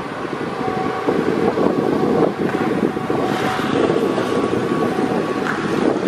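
A passenger train rolling past on the track, its rumble mixed with wind buffeting the microphone. A faint, thin, steady whine runs through most of it.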